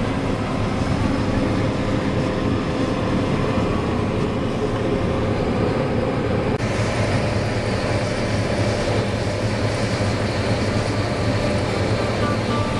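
A combine harvester running steadily as it harvests corn: a continuous machine drone with a low hum. The tone turns brighter and hissier about halfway through.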